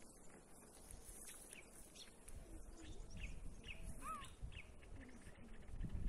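Small birds chirping in short, repeated high notes, one with a lower curved call about four seconds in, faint, over a low rumble that grows in the second half.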